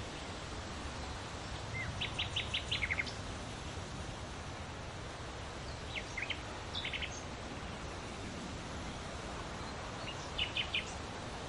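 Small birds chirping in three short runs of quick, high notes over a steady outdoor background hiss.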